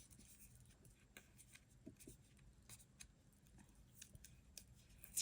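Near silence with faint, scattered small clicks and handling noises from washi tape and paper being handled, and a sharper click at the very end.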